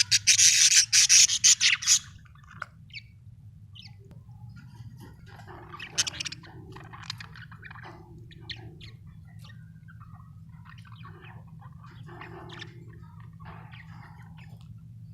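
Pet budgerigars chirping and chattering. There is a loud, dense burst of rapid calls for about the first two seconds, then scattered short chirps and squawks.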